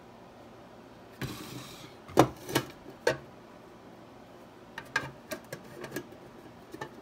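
Objects being handled: a short rustle, then three loud knocks in quick succession and a run of lighter clicks and taps.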